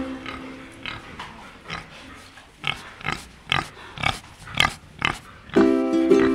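Wild boar grunting: a string of short grunts at about two a second, faint at first and louder in the second half. Ukulele music comes in near the end.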